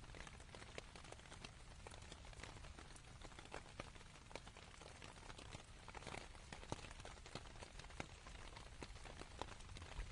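Light rain falling on a canvas tent: a steady, faint hiss with many separate drops ticking sharply on the fabric.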